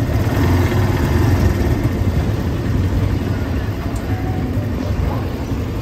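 Motorcycle engine of a Philippine tricycle running with a steady low rumble, heard from inside its passenger sidecar, with road traffic around it.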